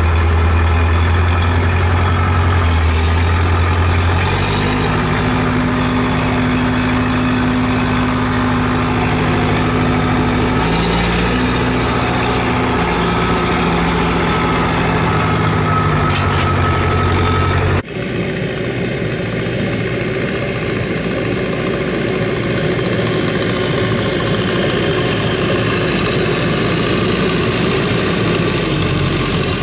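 Tractor diesel engine running steadily. About 18 seconds in the sound changes abruptly, as if to a different shot or tractor.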